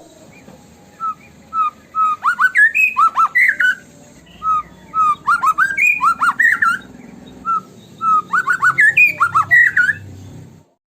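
White-rumped shama singing in bursts of rapid, clear whistled notes that rise and fall, in three main phrases with short pauses between them. The song stops abruptly near the end.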